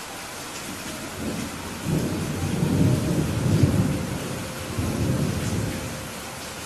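Steady rain hissing, with a low rolling rumble of thunder that builds about two seconds in, peaks in the middle and dies away near the end.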